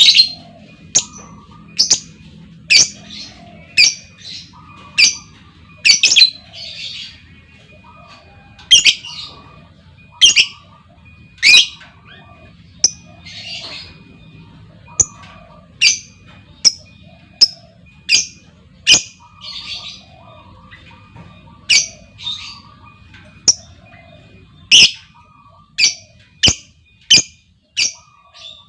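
Female lovebird calling: short, sharp, high-pitched calls repeated about one or two a second, with softer chattering notes between them. It is a lure call meant to set other lovebirds calling.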